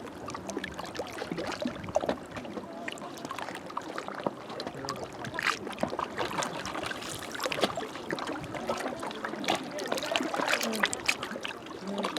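Small waves lapping and splashing against a rocky shoreline, a steady wash of water broken by many irregular little splashes and gurgles.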